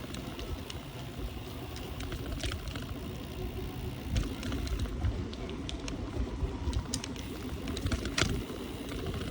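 Bicycle rolling along a street: steady low rumble of tyres and moving air, with scattered irregular clicks and rattles from the bike, a sharper knock about eight seconds in.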